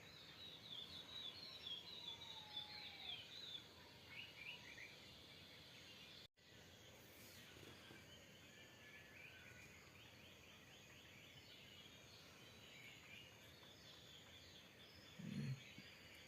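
Small birds chirping in quick trilled phrases over a steady hiss, loudest in the first few seconds and fainter later. The sound drops out for an instant about six seconds in, and a brief low thump comes near the end.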